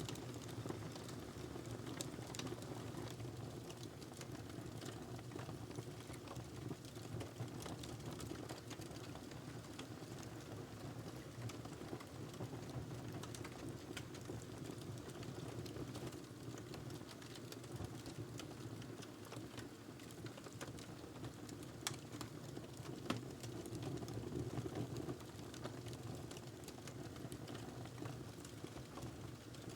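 Fireplace fire crackling. A steady low rustle of burning runs under frequent small, sharp, irregular pops and snaps.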